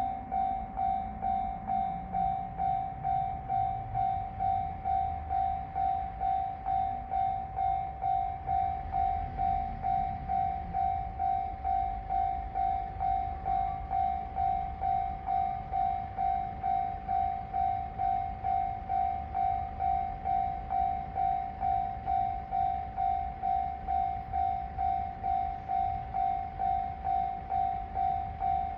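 Railway level-crossing alarm ringing with an even, repeating tone of about two strokes a second, over the low rumble of a Tarumi Railway diesel railcar passing.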